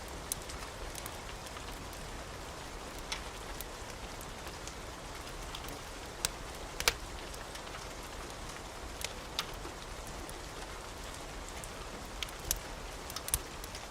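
Wood fire burning in a fireplace: a steady soft hiss with scattered, irregular sharp crackles and pops, the loudest about halfway through.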